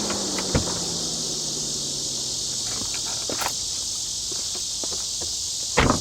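Steady high chorus of insects, crickets by the sound of it, with a car's engine note sinking in pitch and dying away over the first few seconds. A few short knocks break in, the loudest near the end.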